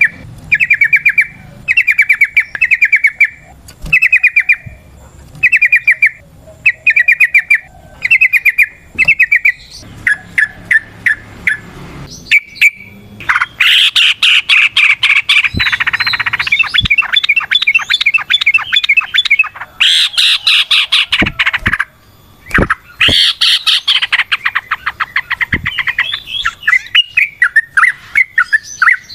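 Yellow-vented bulbul (trucukan) singing. First comes a string of short bubbly phrases repeated about once a second; then, from about halfway, long fast rattling runs of notes: the 'ropel' song.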